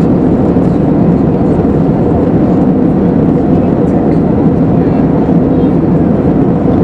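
Steady cabin noise inside an Airbus A320neo in flight: an even, unbroken rush of airflow and CFM LEAP-1A26 engine noise, heaviest in the low range.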